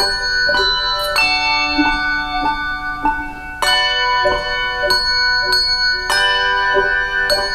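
Handbell choir playing a slow piece: notes struck about twice a second and left to ring, with fuller chords every few seconds.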